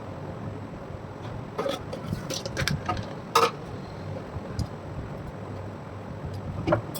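Metal parts and tools being handled on a workbench: a scatter of sharp clinks and knocks, the loudest about three and a half seconds in, over a low steady hum.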